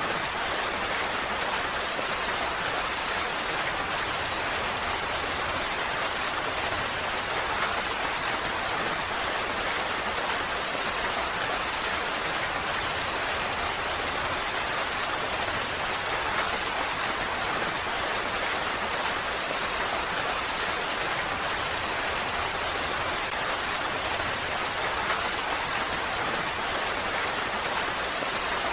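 Steady rainfall, an even hiss of rain with scattered individual drops pattering on surfaces.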